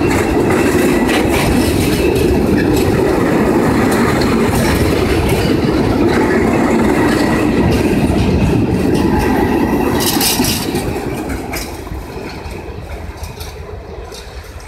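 Freight train of covered sliding-wall wagons (Habbins type) rolling past, wheels clattering over the rail joints. About ten seconds in the last wagon goes by and the sound fades as the train moves away.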